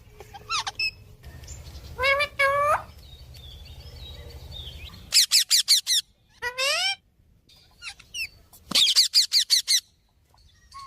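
Pet parrot calling: a few drawn-out whistles and squawks, then twice a quick run of about six sharp rising chirps in a row.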